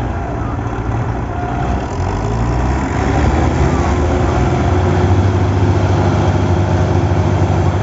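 Several diesel farm tractors running together, with a deep engine drone that gets louder about three seconds in as the engines are opened up.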